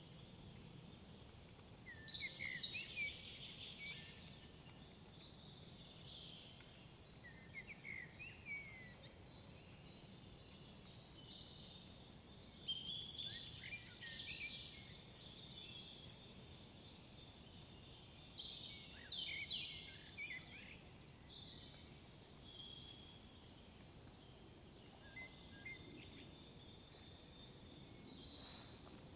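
Songbirds singing in a forest, with trilling phrases every few seconds, several of them ending in a high trill. A faint steady low rumble sits underneath.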